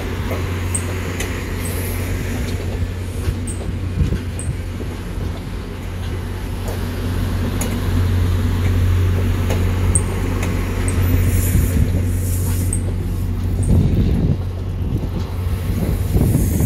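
MBTA commuter train moving along the track, with a steady low drone from its diesel locomotive. The sound grows louder and rougher near the end.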